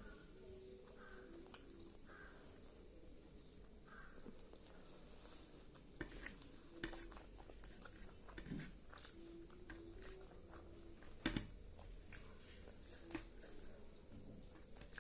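Faint eating sounds from someone eating chicken and rice: occasional quiet chewing and a few scattered small clicks over a low room hush. The sharpest click comes about eleven seconds in.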